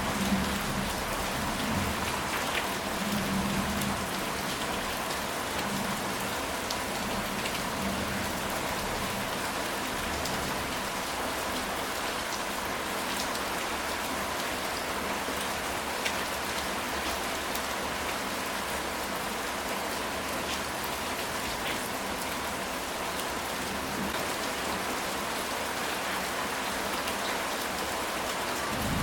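Steady rain falling on a ceramic tile roof, an even hiss with scattered individual drop taps. A low rumble of thunder fades away in the first few seconds.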